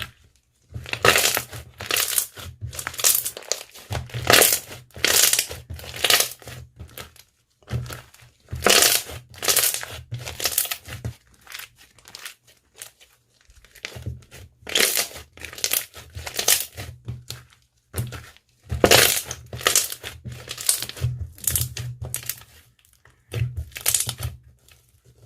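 Slime being squeezed and pressed by hand, giving repeated crackly, crunchy squishes about one or two a second, with a few short pauses.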